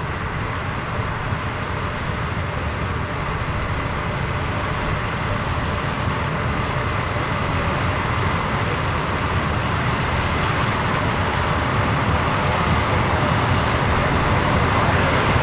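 Combine harvester running while harvesting corn, a steady mechanical drone that grows gradually louder, as if the machine is coming closer.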